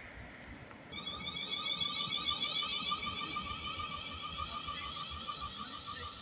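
Electronic train door warning alarm on a South Western Railway Desiro unit, beeping rapidly for about five seconds as the doors close. It starts about a second in.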